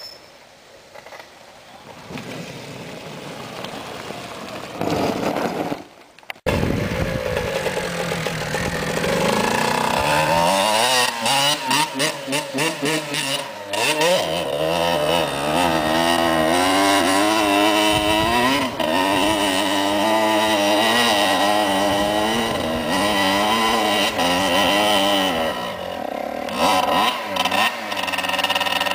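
Dirt bike engine revving hard, its pitch rising and falling unevenly under load. It cuts in suddenly and loud about six seconds in, after a quieter engine sound that slowly builds.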